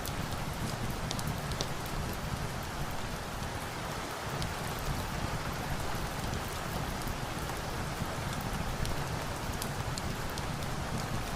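Steady rain with scattered sharp little crackles from a log fire.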